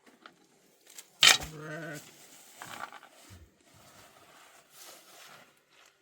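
Livestock bleating: one loud, wavering bleat that starts abruptly about a second in and lasts under a second, then a fainter short call soon after.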